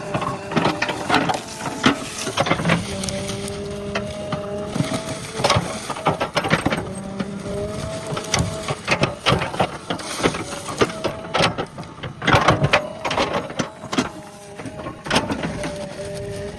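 JCB backhoe loader's diesel engine working under load with a whine from the hydraulics that shifts in pitch, over frequent sharp knocks and cracks from the digging work.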